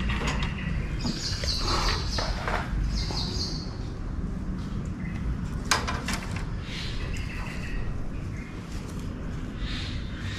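Birds chirping in short, scattered calls over a steady low rumble, with one sharp click about halfway through.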